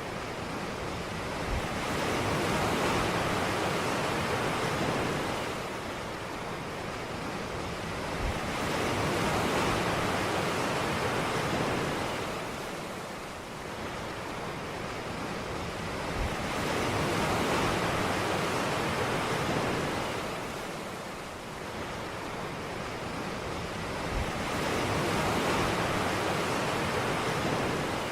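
Ocean surf on a beach, the waves swelling and falling back about every eight seconds, four times over.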